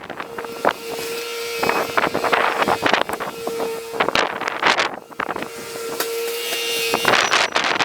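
Small tractor engine running while plowing snow, with a steady hum that comes and goes under rough clattering noise and wind buffeting the microphone.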